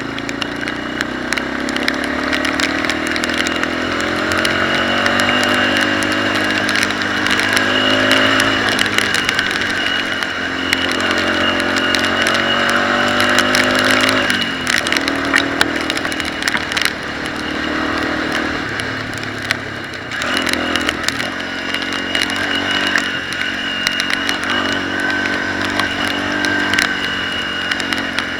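Dirt bike engine under way, the pitch climbing as it revs up through the gears and dropping between pulls, several times over. Scattered sharp knocks and rattles sound over it.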